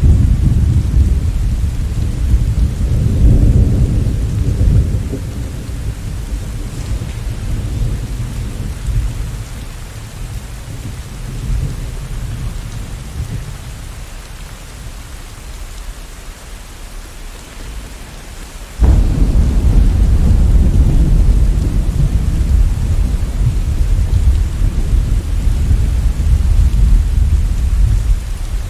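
Steady rain with thunder: a long low rumble that slowly dies away over the first half, then a sudden loud thunderclap about two-thirds of the way in, followed by heavy continued rumbling.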